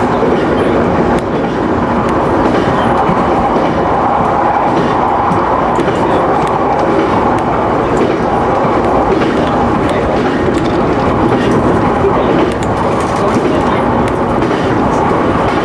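Local electric train running along the line, heard from inside the leading car: a steady rolling rumble of wheels on rail with faint clicks of the wheels passing over rail joints.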